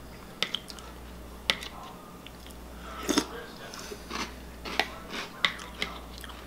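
A person chewing and crunching a mouthful of cereal close to the microphone, with sharp clicks scattered through it.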